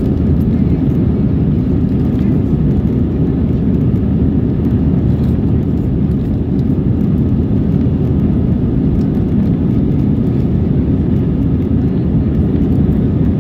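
Steady low engine and airflow noise inside the passenger cabin of an Airbus A319 under high thrust, as the jet takes off and climbs.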